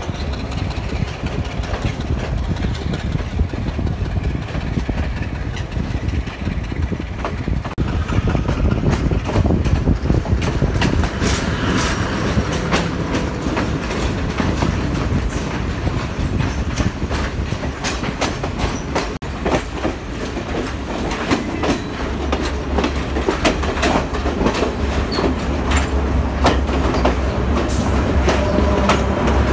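Passenger train carriages running on the rails: a steady rumble with rapid clicking of wheels over rail joints. A deep low drone joins in the last several seconds.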